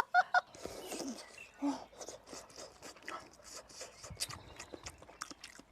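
Quiet eating sounds: soft chewing and small mouth clicks while eating hot mapo tofu.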